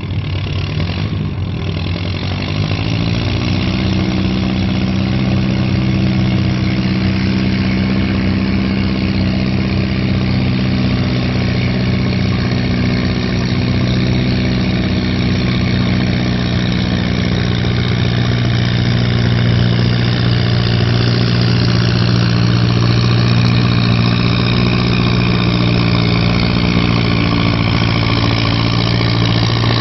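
1952 Allis-Chalmers WD's four-cylinder engine pulling a sled down a tractor-pull track. Its pitch rises over the first few seconds, then it runs hard and steady.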